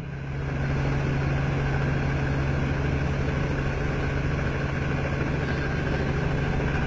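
Helicopter running steadily: a constant engine hum with a fast, even pulsing underneath.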